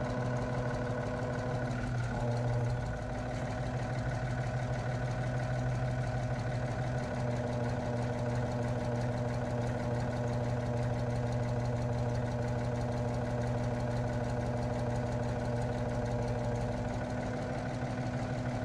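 Tractor engine idling steadily, with a brief swell about two seconds in.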